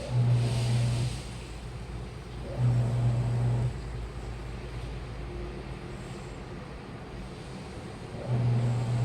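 Washing machine in its wash cycle: the drum motor hums in three short bursts of about a second each, with pauses between, over a steady low rumble.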